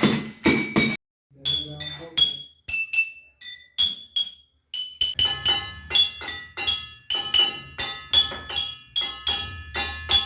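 An uneven run of clinking strikes on hard objects, each ringing briefly at a high pitch. A short silence comes about a second in, and the strikes come faster from about five seconds in.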